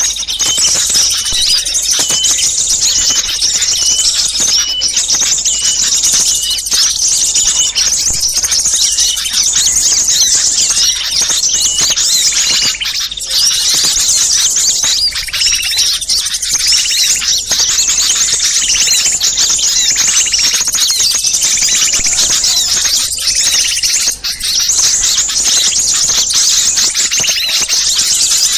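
Dense, unbroken chorus of many small birds chirping and calling at once, high rapid notes overlapping throughout. It is a bird-catchers' lure recording of small birds in an agitated, noisy commotion ('ribut').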